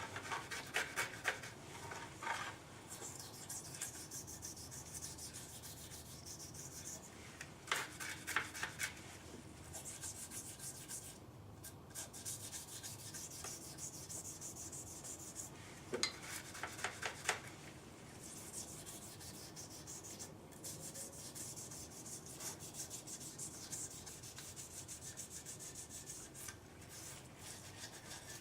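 A distributor housing being cleaned with engine degreaser: short bursts of rapid scratchy rubbing, three times, between long stretches of hissing.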